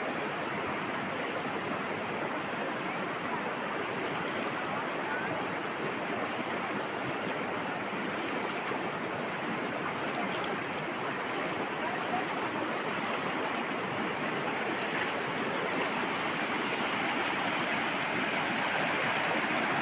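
River water rushing, a steady wash that swells slightly near the end.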